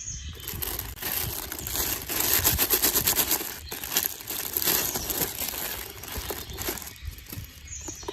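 Irregular crackling and crinkling noise, denser and louder in the middle.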